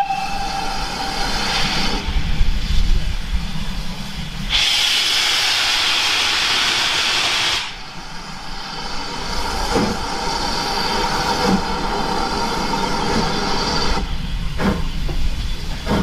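Steam locomotive 5541, a GWR Small Prairie 2-6-2 tank engine, starting away from a stand. The end of its whistle is heard at the start, then steady hissing of steam, loudest for about three seconds in the middle. Slow, separate exhaust beats begin towards the end.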